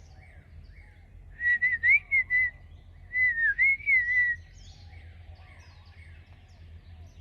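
A person whistling two short warbling phrases, each about a second long, calling to a white-rumped shama, with faint bird chirps in the background.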